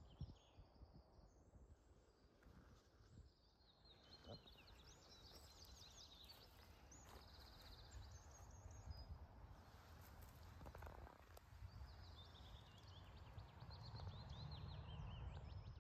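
Faint birdsong: quick high chirps and short trills from small birds, over a low rumble that grows louder near the end.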